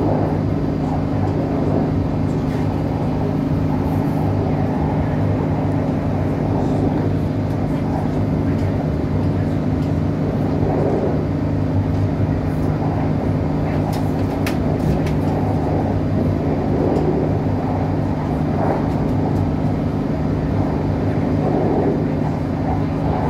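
Inside a Northern Ireland Railways CAF diesel multiple unit running at speed: a steady drone from the diesel engine and wheels on the rails, with a low hum. A few light clicks come about two-thirds of the way through.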